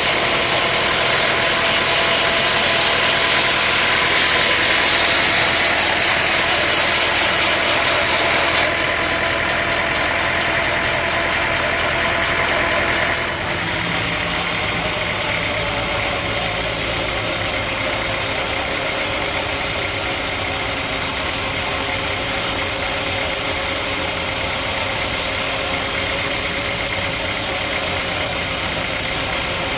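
Sawmill machinery running, a steady engine sound with a fixed tone. The sound changes abruptly about nine seconds in and again about thirteen seconds in, then holds steady.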